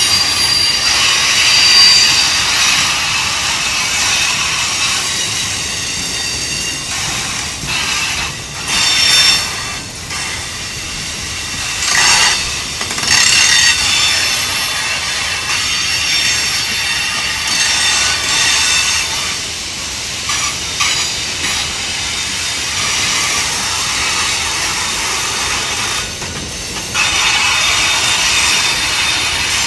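Freight train of autorack cars rolling past on the rails, with steady high-pitched wheel squeal over the rumble and clatter of the wheels; the squeal and clatter swell briefly several times.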